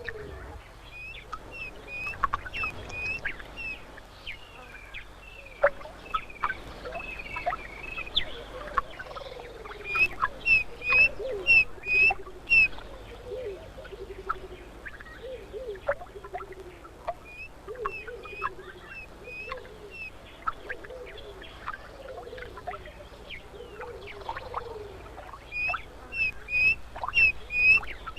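Birds calling in a wild soundscape: runs of short, high, evenly spaced call notes, loudest about ten seconds in and again near the end, over lower falling calls and scattered clicks.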